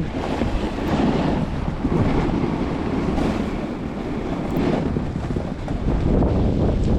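Wind buffeting the microphone of a camera carried down a ski slope in a snowstorm, a steady rushing noise with no distinct events.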